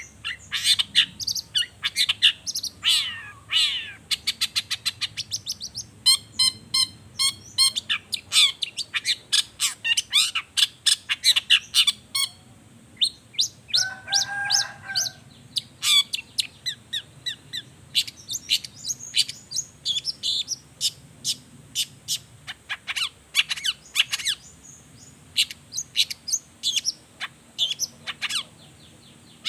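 Long-tailed shrike (cendet) singing a fast, varied song of sharp high chirps and quick trills, with one harsher, lower buzzy note about halfway through.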